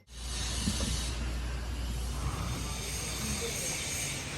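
A machine running steadily: an even noise with a low rumble.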